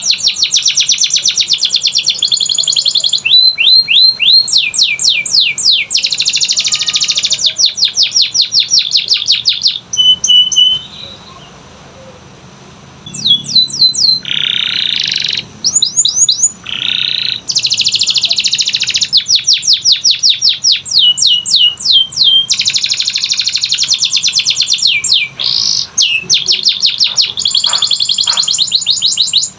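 Canary singing: long, fast trills of repeated falling notes alternating with dense buzzing rolls, with a short break about a third of the way through.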